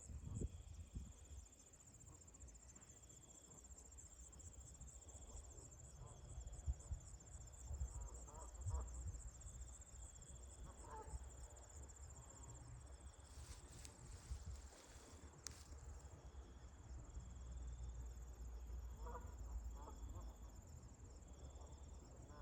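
Insects trilling steadily, a high buzzing trill with a softer chirp repeating about once a second, over a low rumble of wind. A few faint, short distant goose honks come through, and there is a brief rustle and click about two-thirds of the way in.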